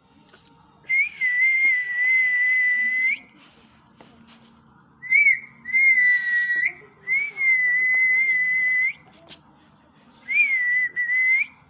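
A pet parrot whistling: five separate whistles, most held steady on one pitch for one to two seconds, several opening with a small upward flick.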